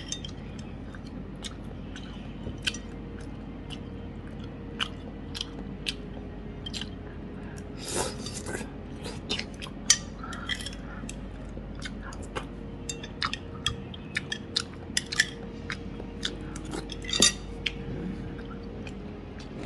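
Close-up chewing and biting of crunchy food: irregular crisp clicks and crunches, with a longer crunch about eight seconds in and another near the end.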